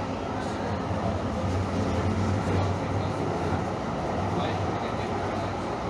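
Steady low hum and rumble inside a Calgary Transit CTrain light-rail car.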